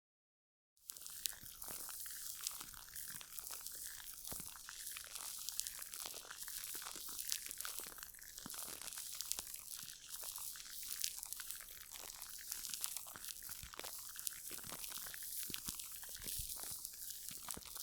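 Gel cleanser worked between fingertips close to the microphone: a dense, crackly, sticky squishing with many small clicks, starting a little under a second in.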